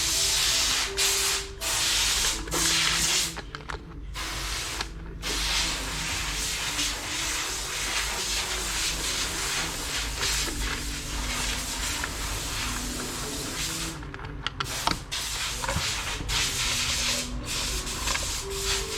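Compressed air hissing from an air nozzle in long blasts with a few short breaks, typical of blowing out carburettor and fuel-line parts.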